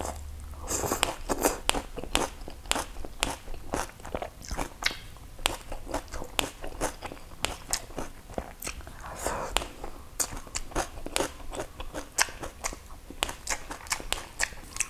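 Close-miked chewing: many short, irregular, crisp crunches of a mouthful of raw vegetables and herbs eaten with rice.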